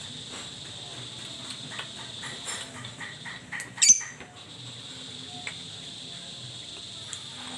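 Agitated lovebird giving rapid short, sharp chirps, then one loud shrill screech about four seconds in. A steady high-pitched buzz runs underneath.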